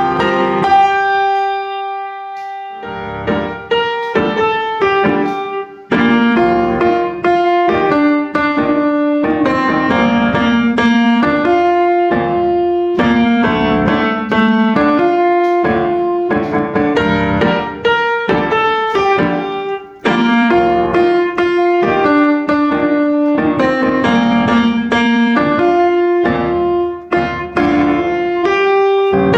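Background piano music: a flowing run of notes, with one note held alone for about two seconds near the start before the playing fills back in.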